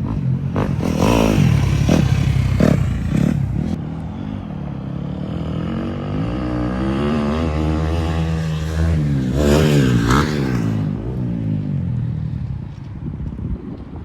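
Small pit bike engine running and revving, its pitch sliding down and then climbing again as the bike rides, with several clattering knocks in the first few seconds.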